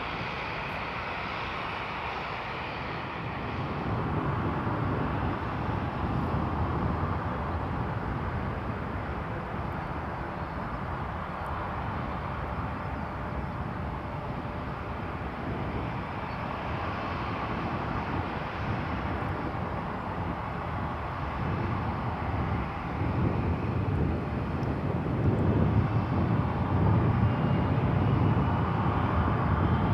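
Jet engines of a Boeing C-17 Globemaster III, four turbofans, running with a steady rushing noise. It grows louder about two-thirds of the way through, and a faint rising whine comes in near the end.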